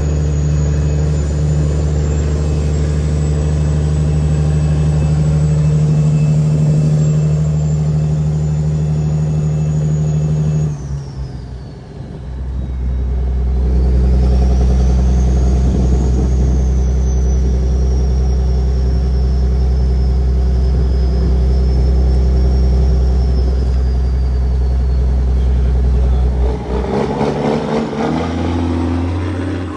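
Caterpillar 6NZ (C15) inline-six diesel in a Kenworth W900L pulling a 50-ton load, running steadily with a high turbo whistle above the engine note. About 11 seconds in, the sound dips for a gear change through the 18-speed and picks up again at a new steady pitch. Near the end there is another change, with uneven pulsing.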